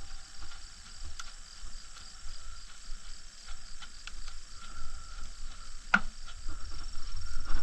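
Small wood fire of twigs and kindling crackling, with scattered light pops and one sharper crack about six seconds in, over a low wind rumble on the microphone.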